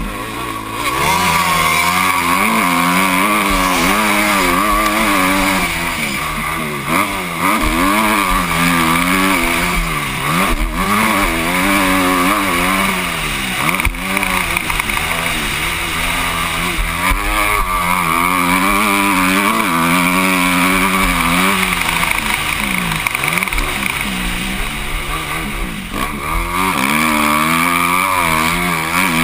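Motocross bike engine heard from the rider's helmet, revving up and falling away again and again as the throttle opens and closes through the gears, over a steady rush of noise.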